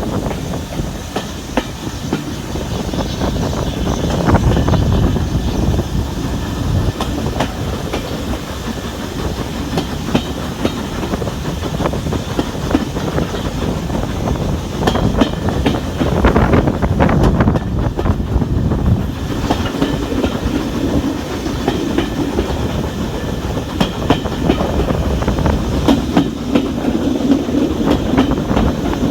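Steam-hauled passenger train running along, its wheels clicking over rail joints over a steady rumble. A low hum comes and goes in the second half.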